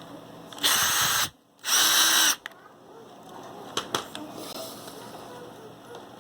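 Power drill running in two short bursts of about half a second each, with a brief pause between them.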